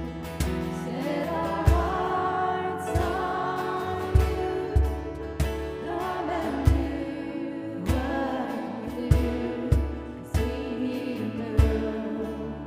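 Live church worship band music, a slow song with sustained chords and a low drum beat about once a second.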